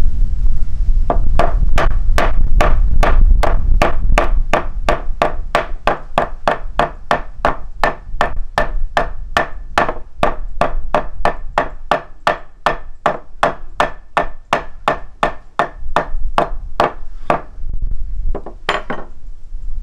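A steady run of sharp knocks or strikes, about two and a half a second, keeping an even beat for about sixteen seconds, then a short pause and two more. Low wind rumble on the microphone at the start.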